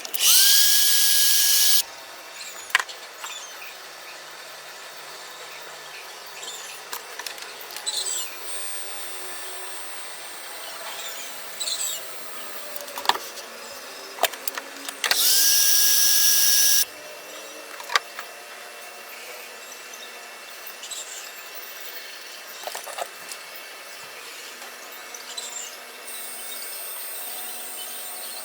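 A power tool runs in two short bursts of about a second and a half, one right at the start and one about 15 seconds in, each spinning up quickly to a steady high whine. Between the bursts there are scattered clicks and knocks of hand work on metal parts.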